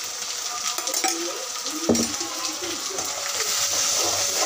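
Masala frying and sizzling in an aluminium kadai while a metal spoon stirs and scrapes through it, with a sharp clank of the spoon against the pan about two seconds in.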